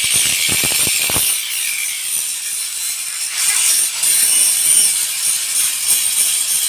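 Angle grinder grinding down welds on a steel frame: a steady, loud, high-pitched hiss of the disc against metal.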